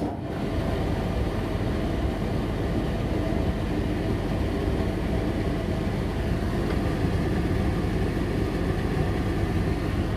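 Indesit tumble dryer switched on with a sharp click, its motor and fan then running steadily. The drive belt is off, so the motor runs without turning the drum.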